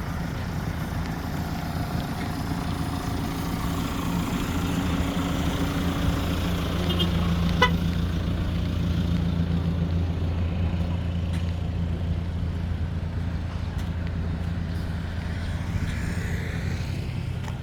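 Road traffic: a motor vehicle's low engine hum builds and fades through the middle, with a brief horn toot about eight seconds in.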